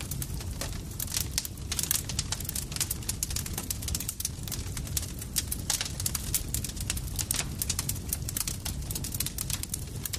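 Campfire burning: many irregular sharp crackles and snaps over a steady low rumble of the flames.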